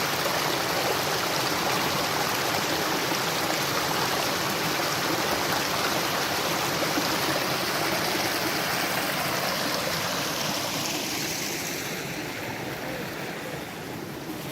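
Small stream rushing and splashing over the rocks in its bed, several water sounds going at once. It grows quieter and duller near the end.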